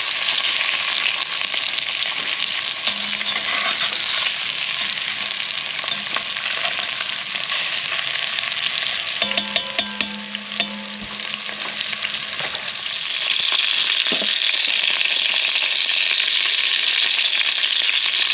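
Chicken pieces sizzling in hot olive oil in a Dutch oven as they sear. A quick run of metal clinks comes a little past halfway, and the sizzle grows louder about two-thirds of the way through.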